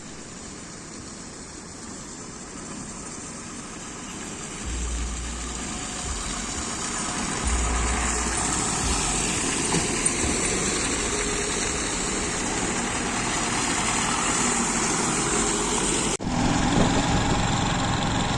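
Motorcycle on the move: steady rush of wind and road noise over the running engine, getting louder about five seconds in, with low wind buffeting for a few seconds. A sudden short break about two seconds before the end, after which the engine hum is plainer.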